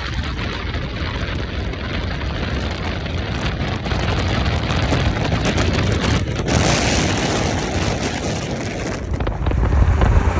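Car engines running amid a dense, hissing wash of traffic noise, with a brief dip about six seconds in.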